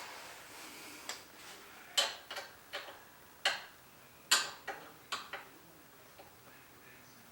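A string of about nine light, sharp metal taps at uneven intervals: a small hammer tapping punches to mark hole centres.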